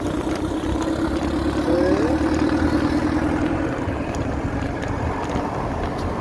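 Street traffic heard from a moving electric motorbike: a steady motor-vehicle hum for about the first four seconds, then fading, over a constant low rumble of wind on the microphone.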